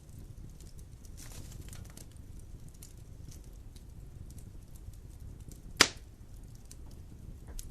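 Wood fire burning in a fireplace: a low steady rumble with scattered small crackles, and one sharp loud pop about six seconds in.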